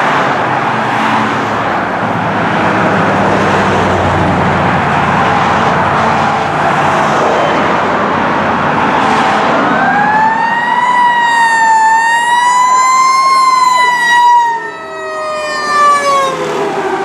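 Fire apparatus responding with siren: loud engine and road noise for the first half, then about ten seconds in a siren winds up into a slow rising and falling wail, which drops in pitch near the end.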